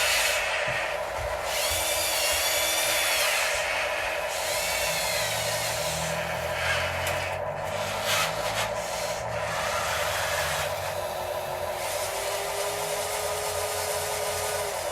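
Scale RC excavators, dump trucks and loader working in topsoil: their small electric motors whine steadily, with several rising and falling whines in the first few seconds, over scraping and rubbing of dirt.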